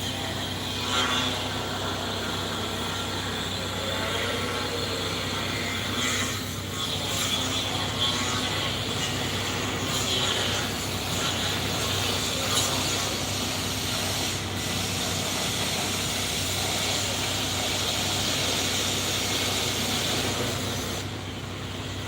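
Excavator's diesel engine running steadily, with hiss and a few short knocks from the machine digging.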